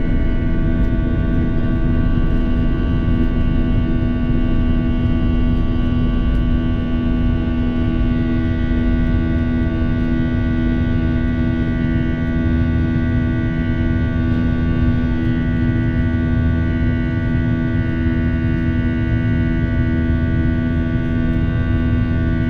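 Jet airliner's engines at takeoff or climb power, heard from inside the passenger cabin: a steady rumble with several steady whining tones over it.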